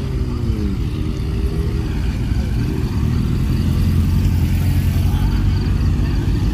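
Car engine running close by: its pitch drops off a rev in the first second, then it settles into a low, steady running note.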